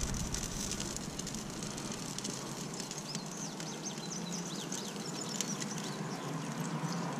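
Quiet outdoor background: a bird chirps a string of short high notes through the middle, over a steady low background noise.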